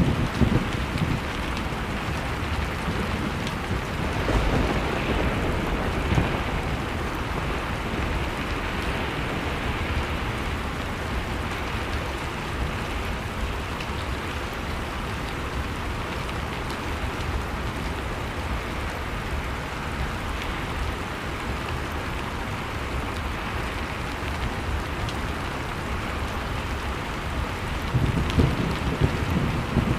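Blizzard and fireplace ambience: a steady rush of storm wind with low rumbling swells near the start, around five seconds in and again near the end, and a few sharp pops from the fire.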